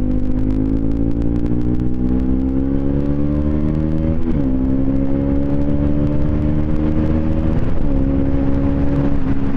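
Bajaj Pulsar NS200's single-cylinder engine through an aftermarket twin-pipe exhaust, pulling while riding. The pitch climbs steadily, drops briefly at an upshift about four seconds in, and climbs again. It drops at a second shift near eight seconds, then holds steady.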